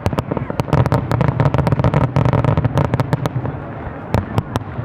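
Fireworks going off: a rapid volley of sharp bangs and crackles over a low rumble, densest in the first three seconds, then a few separate bangs near the end.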